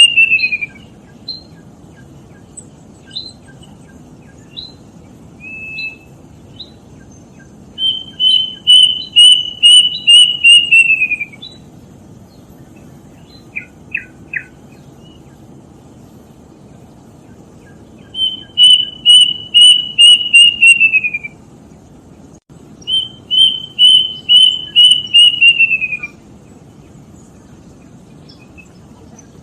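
Kedasih cuckoo singing: phrases of about eight clear, evenly spaced whistles, the last few notes falling in pitch. One phrase ends right at the start and three more follow, the last two close together near the end, with brief chirps from other birds in between.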